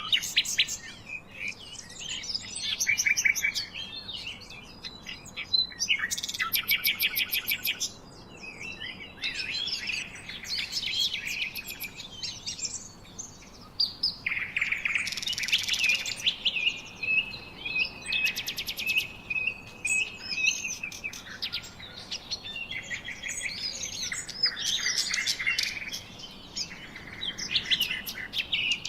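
Several birds singing and chirping at once: overlapping trills, rapid runs of notes and whistled calls, with a long steady whistled note around 16 to 20 seconds in.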